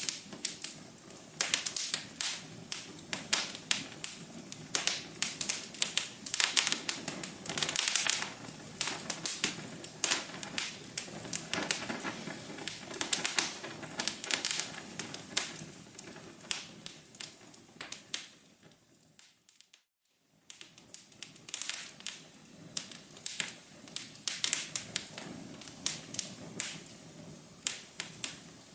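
Wood fire crackling in a fireplace, with many sharp pops and snaps over a soft hiss. About two-thirds of the way through, the crackling fades away to a moment of silence, then fades back in.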